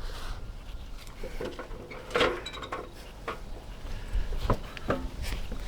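Objects being handled: a scatter of clicks, clinks and knocks as things are picked up and set down, some with a brief ringing tone, over a low rumble of wind on the microphone.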